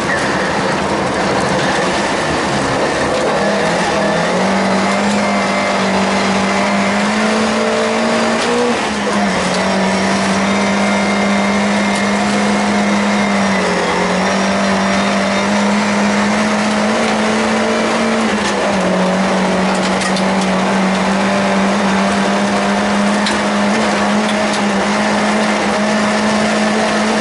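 Volvo 142S rally car's engine running hard at high revs, heard from inside the cabin. Its pitch holds steady, with a brief drop about nine seconds in and a dip about fourteen seconds in before it climbs again.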